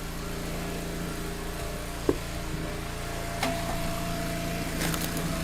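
Log splitter's small engine running steadily, with a sharp knock about two seconds in and a few lighter knocks later on.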